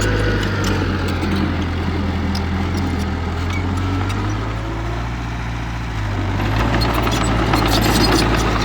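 Heavy diesel engine of earthmoving equipment running, with scattered clanks. It eases off in the middle and revs up again about six seconds in.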